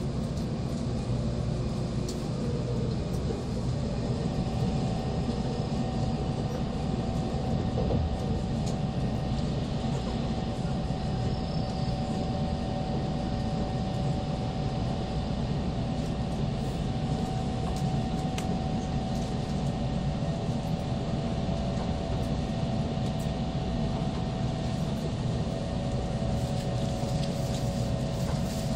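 Steady rumble of an N700 series Shinkansen passenger car heard from inside the cabin, running slowly under a heavy-rain speed restriction. A faint steady whine joins the rumble about four seconds in.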